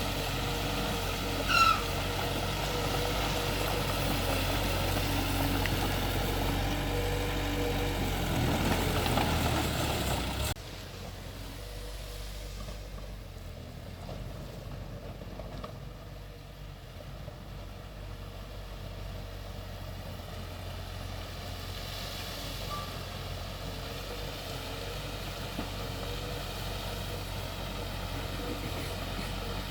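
Heavy diesel earthmoving machinery running steadily, with a short high beep about a second and a half in. The engine rises in level around eight seconds in, then the sound drops abruptly to a quieter, steady engine running.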